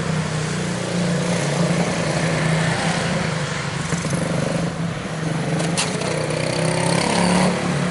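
Quarter midget race cars' small single-cylinder Briggs & Stratton Animal engines running on track, a steady loud drone.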